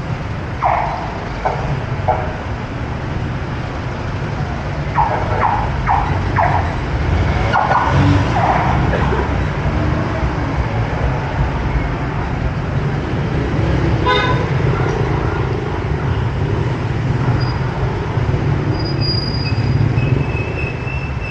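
Street traffic with vehicle engines running steadily. Several short horn toots sound in quick clusters during the first nine seconds, and another toot comes about fourteen seconds in.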